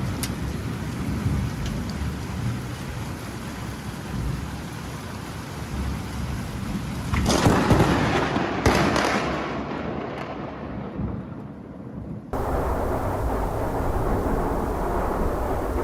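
Rain falling during a thunderstorm, then a loud, close thunderclap about halfway through that crackles and rumbles away. A few seconds later the sound cuts off abruptly to a different steady noise.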